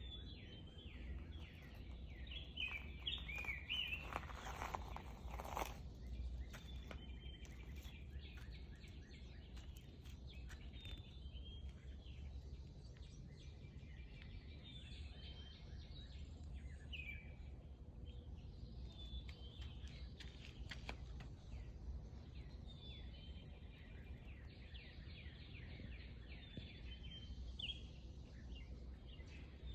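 Small birds chirping and trilling in a morning chorus, many short high calls overlapping, busiest in the first few seconds, over a steady low rumble. A brief louder rustle comes about four to six seconds in.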